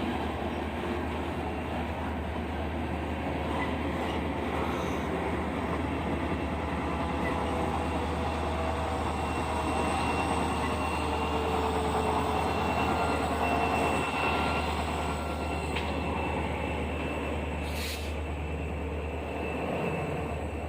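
A train rolling past on the rails, a steady noise that swells a little toward the middle and then eases.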